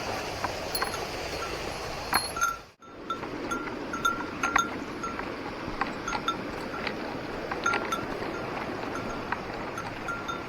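A small metal bell jingling irregularly in short rings over the steady rush of a mountain stream, with a brief cut in the sound about a quarter of the way in.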